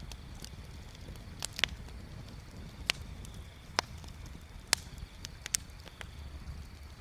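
Wood bonfire crackling, with irregular sharp pops and snaps a second or so apart over a low steady rumble.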